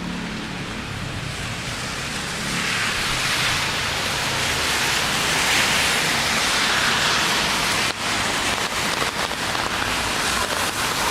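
Steady rain hiss on a wet city street with a low traffic rumble underneath, the rain getting louder about two and a half seconds in. Near the end, a run of small ticks from drops landing close by.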